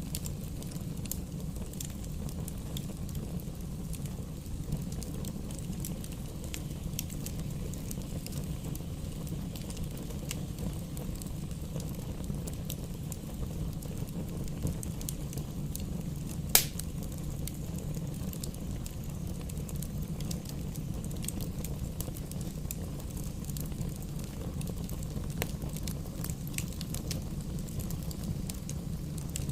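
Campfire burning, with a steady low rumble and scattered small crackles, and one loud sharp pop a little past halfway.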